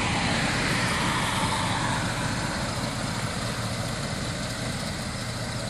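Big-block V8 of a Chevrolet Monte Carlo idling steadily through its original factory GM exhaust with resonators, a quiet, mellow exhaust tone.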